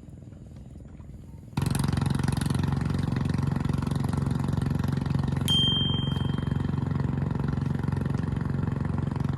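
A small engine running steadily at a constant pitch. It comes in suddenly about a second and a half in, over a faint low hum. A short high beep sounds about halfway through.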